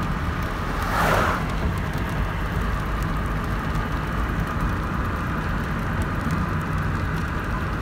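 Nissan NV200 van driving: steady engine and road noise, with a brief louder whoosh about a second in.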